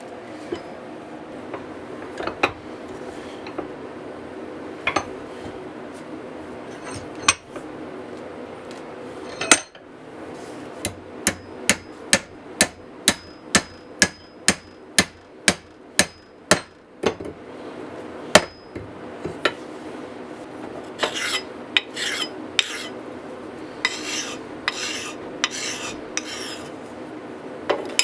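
Hand-tool work on a hatchet. A few scattered knocks are followed by a steady run of about fifteen hammer blows, roughly two a second, and then several rasping strokes near the end. A steady hum runs underneath.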